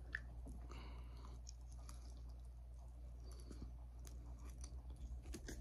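Faint chewing with scattered small mouth clicks: a person eating a bite of barbecue-sauced meat patty.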